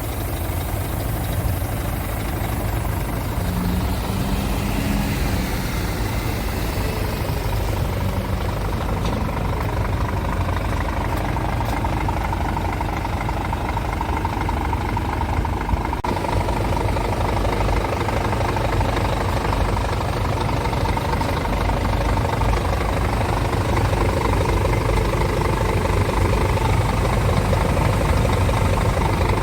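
Scania P truck's diesel engine running steadily at idle, a deep continuous rumble that grows slightly louder near the end.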